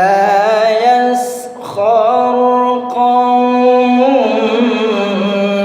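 A man reciting the Quran in melodic tilawah style, holding long ornamented notes with vibrato. He takes a short break about a second and a half in, and the pitch steps down a little about four seconds in.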